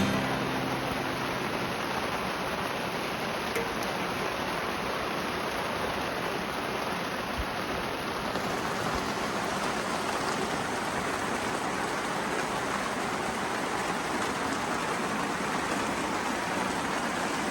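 Steady rain falling, an even rushing noise that does not let up.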